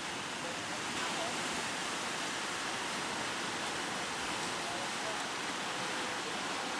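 Steady wash of heavy sea surf, big waves breaking and running up the shore.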